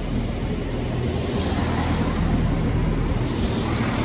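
Northern diesel multiple unit moving slowly past at close range, its underfloor engines running over the rumble of the wheels, growing a little louder.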